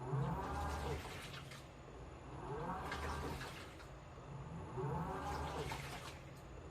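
Washing machine in its wash cycle: the motor whine rises and falls in pitch each time it turns the load one way and then back, about every two seconds, with water sloshing in the tub.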